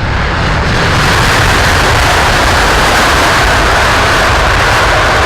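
Airbus A350-1000's Rolls-Royce Trent XWB jet engines on the landing roll just after touchdown. The noise swells over the first second, then holds loud and steady.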